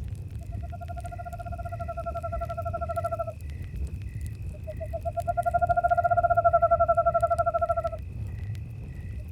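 An owl giving two long, rapid trills on one steady pitch, the second louder, over crickets chirping steadily at about three chirps a second. A campfire rumbles and crackles softly underneath.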